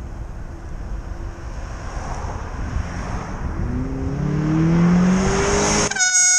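A Chevy Malibu passing close by a bicycle, its engine rising in pitch and getting louder as it accelerates, over wind on the microphone. Near the end a horn sounds one steady note for under a second.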